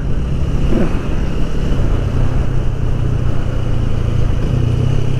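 Motorcycle engine running steadily while riding slowly, with wind and road noise rushing over the microphone.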